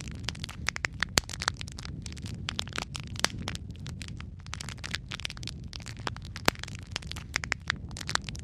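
Wood fire in a fireplace crackling, with many quick irregular pops and a few louder snaps over a steady low rumble.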